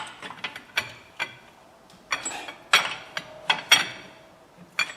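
Hand tools on metal: a string of irregular metallic clinks and clanks, some with a brief ring, about eight in all.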